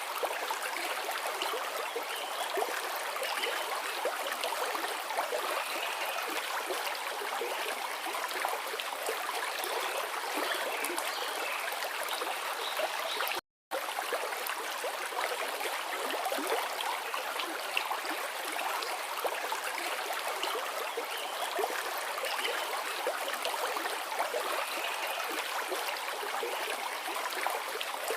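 Forest river flowing over rocks: a steady rush and babble of water, with the sound cutting out completely for a fraction of a second about halfway through.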